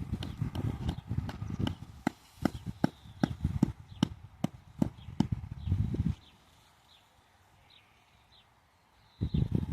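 Tent peg being hammered into hard ground in a steady run of sharp knocks, about two a second, for some six seconds, with wind buffeting the microphone. The knocking stops and a gust of wind hits the microphone near the end.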